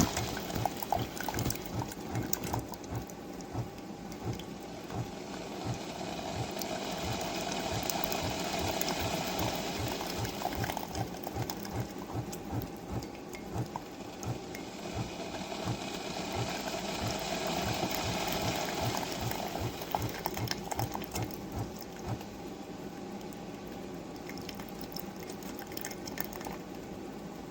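SiFENE single-serve coffee maker brewing: its pump pulses rapidly and steadily while hot water gurgles and sputters through, the gurgling swelling and fading twice.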